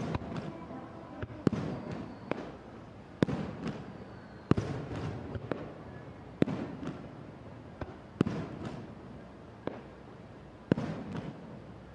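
Aerial fireworks shells bursting: about ten sharp bangs at uneven intervals of roughly a second, each trailing off in a rumbling echo, with crackling after some bursts.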